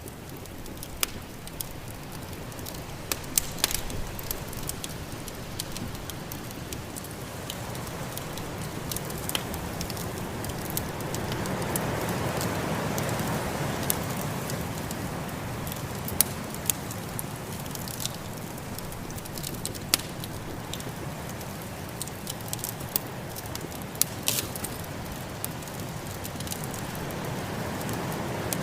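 Wood fire crackling with scattered sharp pops, over the steady rushing of snowstorm wind that swells about halfway through.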